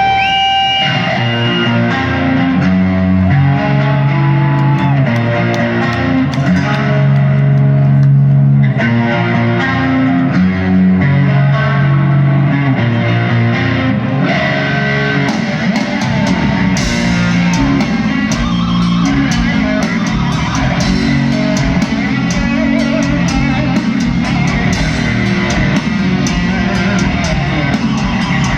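Heavy metal band playing live: an instrumental passage with a distorted electric guitar holding long, bending notes over bass guitar and drums. The drums get busier about halfway through.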